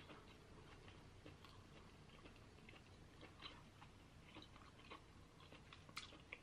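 Faint mouth sounds of someone chewing king crab meat, with scattered small clicks and a sharper click about six seconds in.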